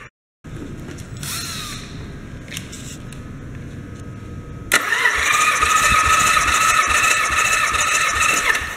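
Nissan VG30DETT twin-turbo V6 engine being turned over and starting: after a quieter stretch it catches suddenly about halfway through and runs loudly with a steady high whine, then fades near the end.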